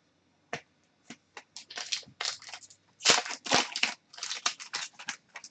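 Hockey trading cards being handled and flipped through by hand: a string of short, irregular, scratchy rustles of card stock sliding over card.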